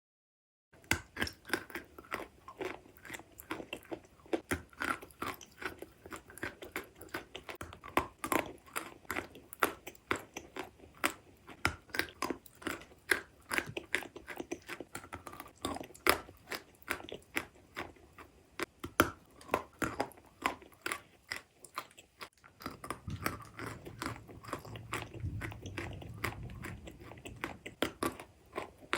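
Biting and chewing chalk close to the microphone: a dense, irregular run of sharp crunches. A short pause comes about 22 seconds in, after which the crunching goes on over a low rumble.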